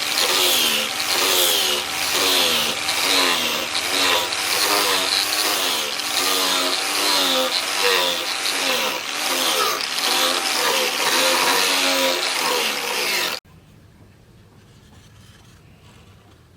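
A power tool grinding steel, its motor pitch dipping and recovering in a steady rhythm of about one and a half times a second as the work is pressed on and eased off. It cuts off abruptly near the end.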